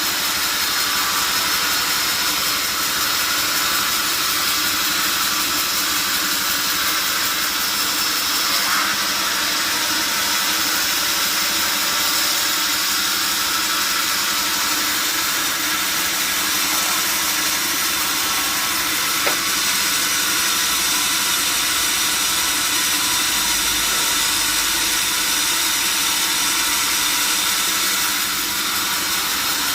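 Sawmill saw running steadily through the whole stretch, a loud, even, high-pitched noise with no breaks.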